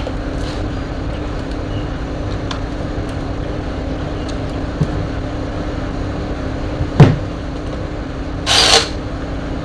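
Steady hum with a low rumble throughout, a sharp knock about seven seconds in, and a brief rustling scrape near the end: handling noises while a fan is being worked on.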